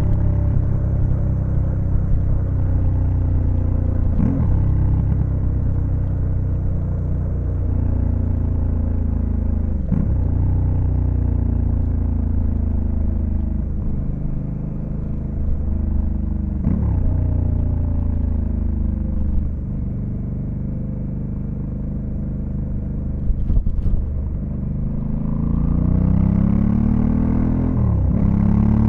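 Honda Africa Twin CRF1100L's parallel-twin engine under way: its pitch sinks as the bike slows, with about four quick jumps up in pitch as it is shifted down through the gears, then climbs as it accelerates near the end.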